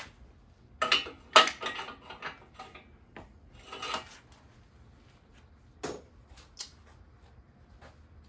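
Metal tools and parts clinking and clattering as they are handled, a handful of sharp clanks with the loudest cluster about a second in and single knocks near the middle and end.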